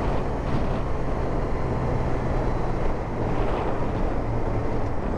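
Yamaha motorcycle engine running at a steady cruise, its low hum mixed with a steady rush of wind noise on the microphone.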